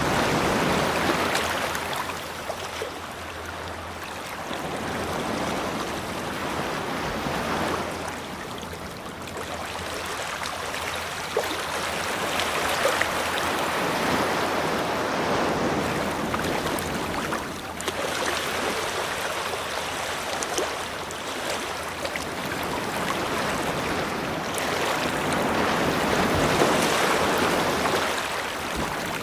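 Ocean waves breaking and washing up the shore in slow surges, swelling and falling back every few seconds.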